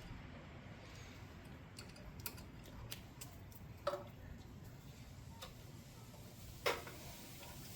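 Light scattered clicks of tools and small metal parts being handled, with two louder metal clinks about four seconds in and near the end, the first ringing briefly.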